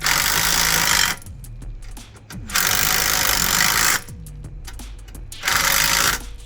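Power tool run in three bursts of about a second each, with pauses between them.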